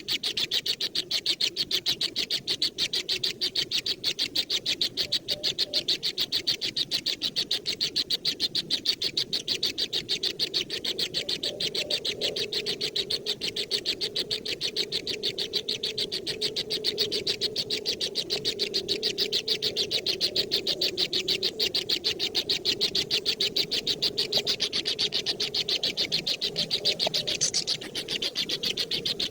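Bird chicks chirping without pause: fast, evenly repeated high chirps, several a second.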